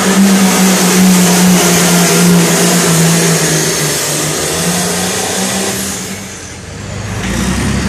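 A pro stock pulling tractor's turbocharged diesel engine running loud at a high, steady pitch. About six seconds in it falls away, then picks back up near the end.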